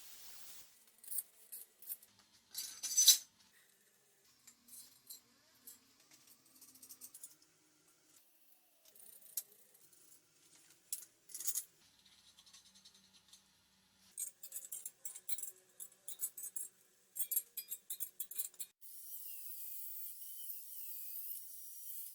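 Metal tools and hardware being handled: scattered clinks, rattles and clicks. A steady high whir with a wavering pitch starts a few seconds before the end.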